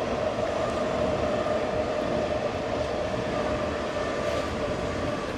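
Sydney Trains electric passenger train running across a girder rail bridge: a steady hum over wheel-on-rail rumble, slowly fading as the rear cars move away.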